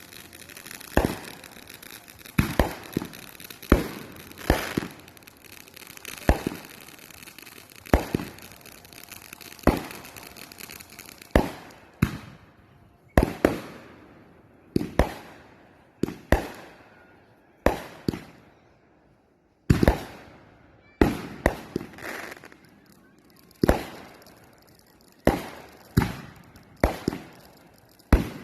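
Fireworks exploding overhead: a steady series of sharp booms, one every second or two, each trailing off in an echo, with a short lull about two-thirds of the way through.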